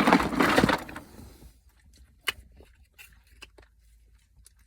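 Close handling noise: a loud rustle lasting about a second and a half, then scattered light clicks and taps as something is fiddled with.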